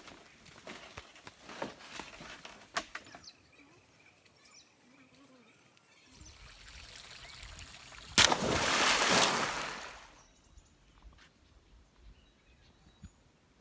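Outdoor stream sounds: scattered small splashes and trickling water, then a sudden loud splash about eight seconds in that dies away over a couple of seconds.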